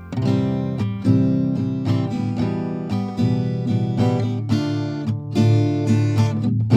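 Background music: acoustic guitar picked and strummed, a new chord or note every half second or so.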